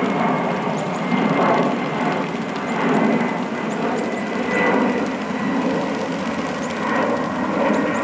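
A flock of small birds splashing as they bathe in a shallow puddle, the splashing coming in swells every second or two. Behind it runs a steady background rumble, with a few faint high chirps.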